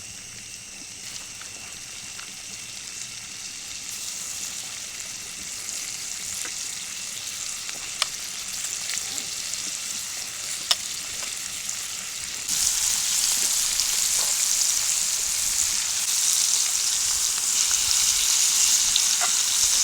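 Marinated chicken pieces frying in butter on a hot cast iron pan over a wood fire: a steady sizzle that builds and turns clearly louder about twelve seconds in, with a few sharp spatter pops along the way.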